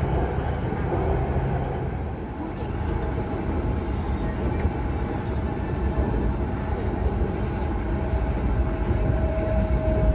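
Inside the cabin of a Bangkok MRT Blue Line metro train running between stations: a steady low rumble of the carriage on the track. Near the end, a thin steady whine grows louder.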